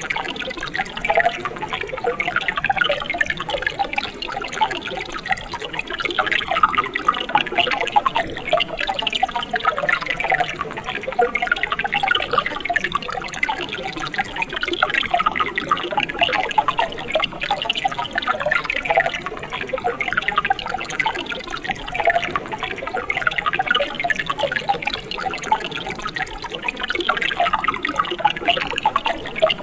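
Water of a mountain stream running steadily, with many small splashes and gurgles and no let-up.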